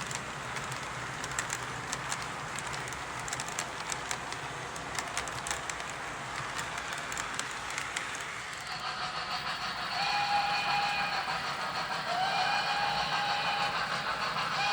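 A sound-equipped model train locomotive running: first a steady hiss with light clicking, then from about nine seconds in, repeated long multi-tone whistle blasts, one of them swooping up in pitch as it starts.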